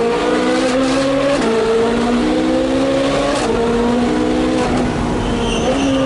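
Ferrari 458 Speciale's 4.5-litre V8 through a straight-pipe exhaust, accelerating hard: the engine note climbs steadily and drops sharply at each upshift, twice in quick succession.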